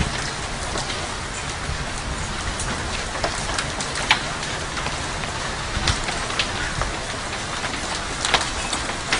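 Hailstorm: a steady hiss of falling hail and rain, with scattered sharp clicks of single hailstones striking hard surfaces.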